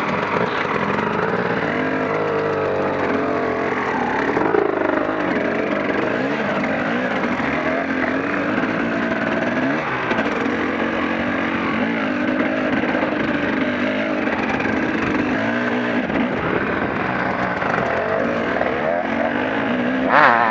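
KTM EXC enduro motorcycle engine revving up and down as it is ridden along a dirt trail, heard from on board the bike, with a sharp rise in revs near the end.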